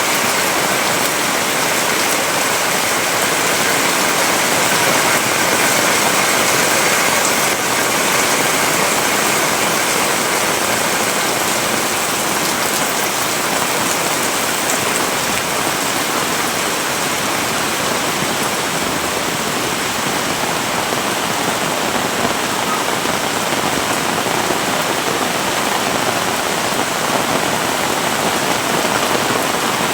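Heavy rain pouring down steadily: a dense, even rush of rain with no let-up.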